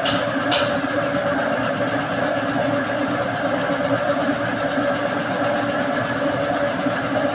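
A steady mechanical drone, like an engine or machine running, with a sharp click about half a second in.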